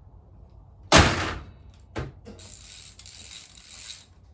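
Mechanic's hand tools working on the engine block: a loud sharp metallic knock about a second in, a shorter one a second later, then a steady high hiss-like mechanical sound for about a second and a half.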